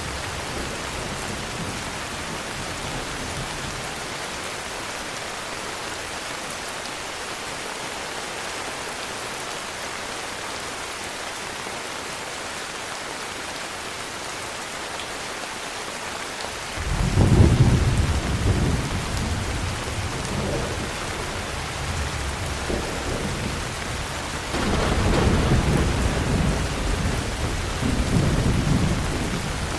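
Steady heavy rain hissing. About halfway through, a deep rolling thunder rumble starts suddenly and swells again twice near the end.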